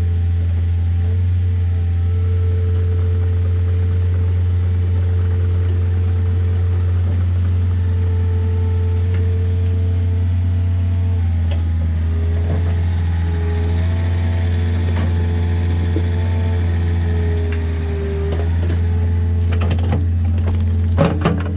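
Takeuchi TB153FR mini excavator's diesel engine running steadily, a tone above the engine shifting in pitch now and then as it works. A few sharp knocks come near the end.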